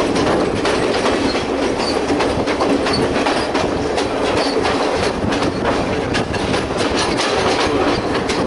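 Passenger train running along the track, its wheels clattering over the rail joints in a steady run of clicks over a constant rumble.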